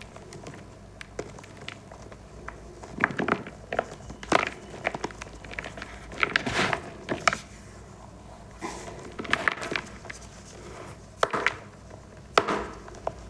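Balls of reformed gym chalk being crushed, crunching and crumbling in irregular bursts of sharp crackles, with small quieter crackles in between.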